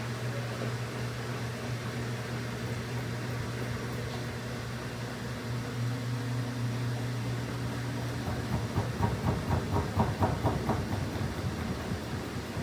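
Washing machine running with a steady low motor hum. From about eight seconds in, a few seconds of louder rhythmic thumping and sloshing, about three beats a second, then back to the steady hum.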